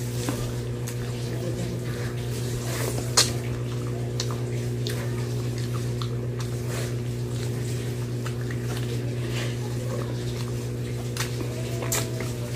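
Wet chewing and lip-smacking mouth sounds of someone eating stuffed grilled tilapia with her fingers, with scattered short sharp clicks, the loudest about three seconds in. A steady low hum runs underneath.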